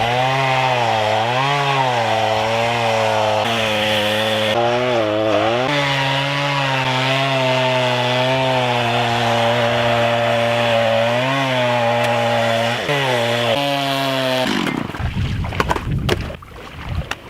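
Two-stroke chainsaw cutting into pond ice, its engine pitch sagging and recovering again and again as the chain bites. The engine stops near the end, leaving scattered knocks and wind.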